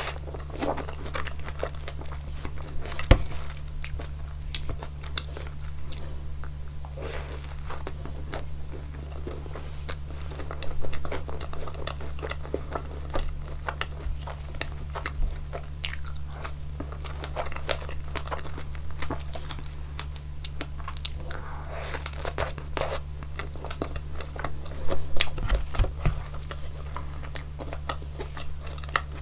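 Close-miked eating of a waffle topped with strawberries and whipped cream: biting and chewing, with many short irregular crunchy clicks. A steady low hum runs underneath.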